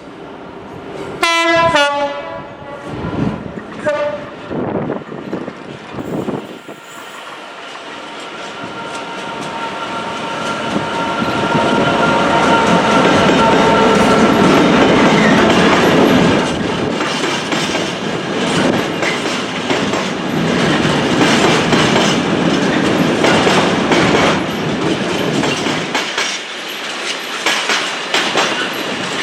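A train sounds its horn about a second in and gives a short second toot a few seconds later, then comes closer, growing louder with a steady tonal hum, and passes with its wheels clacking over the rail joints.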